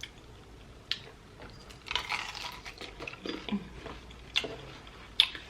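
Close-miked chewing and biting of saucy fried chicken wings: wet mouth sounds and crunching, with a few sharp smacks.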